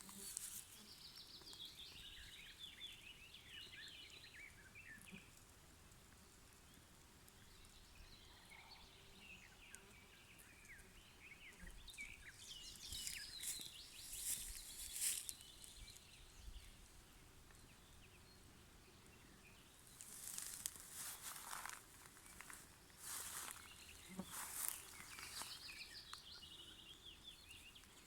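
Nightingale singing faintly in three long stretches of rapid, varied phrases with short pauses between them.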